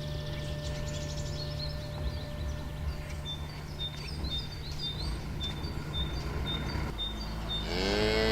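Outdoor pasture ambience with a steady low hum. A bird chirps a short high note over and over, about twice a second, and near the end a cow's moo begins, rising and then falling in pitch.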